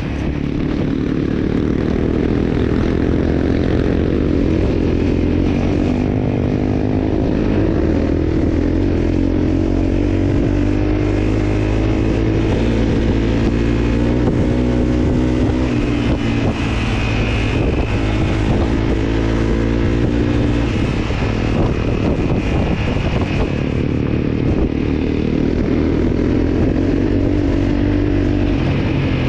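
Motorcycle engine running while riding, its pitch rising and falling again and again as the revs change.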